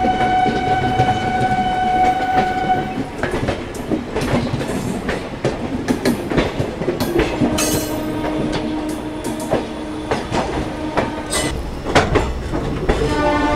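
Train horn sounding steadily for about three seconds, then the clatter of wheels over rail joints and points as a passenger train rolls through a yard, heard from an open coach door. A lower steady horn-like tone holds for several seconds midway, and a horn sounds again near the end.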